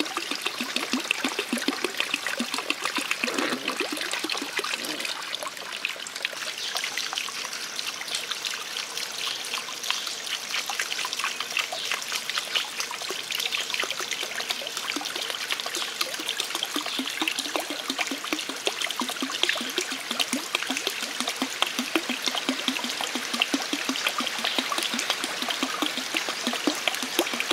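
Running water trickling and splashing steadily, a dense patter of small splashes with no pause.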